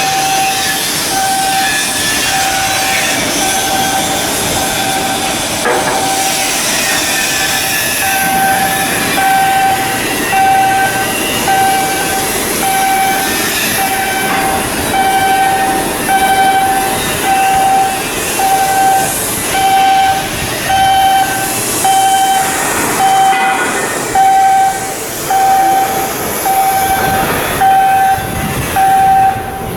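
An electronic warning beeper sounding in even pulses about once a second over a steady din of industrial noise.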